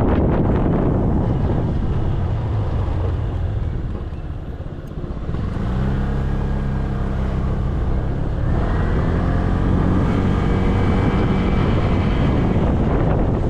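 Motorcycle engine running under way with wind rushing over the camera microphone. The wind noise eases about four seconds in, then the engine note comes through steadily and climbs a little past halfway.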